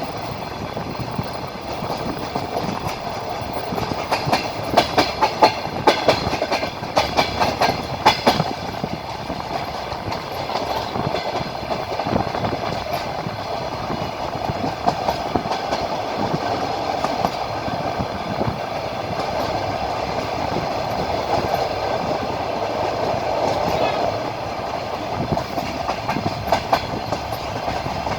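Train wheels clacking over rail joints beneath a moving passenger carriage, over a steady rolling rumble. A run of clacks comes about four seconds in, the rolling noise carries on evenly, and more clacks come near the end.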